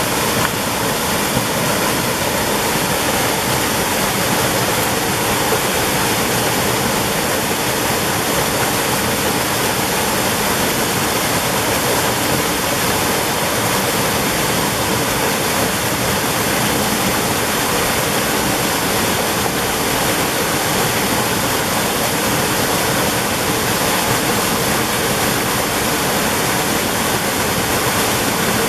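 Mountain valley stream running: a steady, even rush of water with no breaks.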